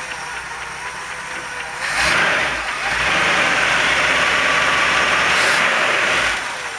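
Ford 460 big-block V8 idling, then revved up about two seconds in and held high for about four seconds before dropping back to idle.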